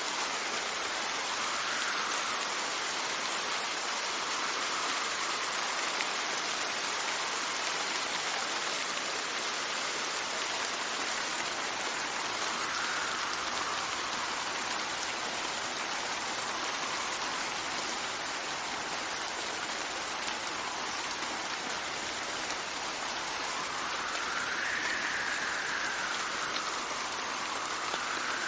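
Steady rain falling, with wind gusts that swell and fade every several seconds, the strongest gust near the end.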